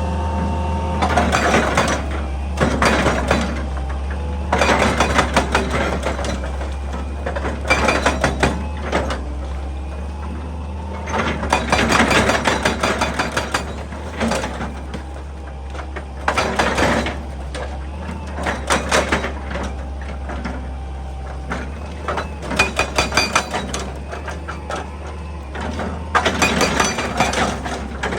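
Excavator diesel engine running steadily, with repeated bursts of crunching and clattering from the bucket digging into rock and earth, a burst every two to four seconds.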